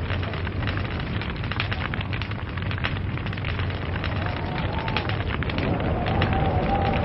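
Log fire burning, with dense crackling and popping over a steady low rumble. A faint wavering whistle rises and falls around the middle and again near the end.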